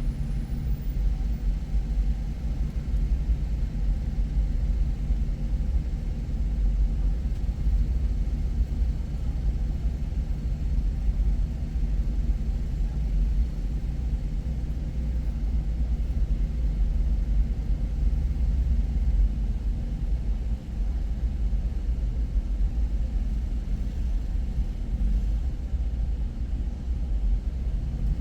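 Car driving at a steady pace: an even low rumble of engine and road noise.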